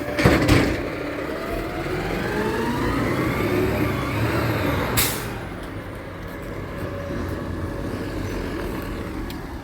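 Garbage truck engine revving up, rising steadily in pitch, with a bang just after the start and a sharp air-brake hiss about five seconds in, then running on steadily.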